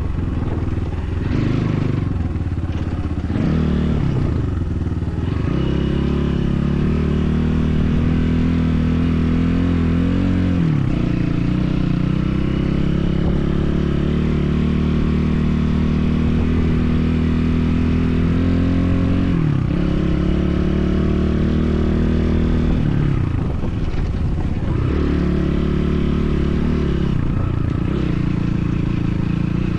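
BSE enduro motorcycle engine running while riding, its revs holding steady or climbing slowly and dropping sharply several times, about 10 and 20 seconds in and a few times near the start and end.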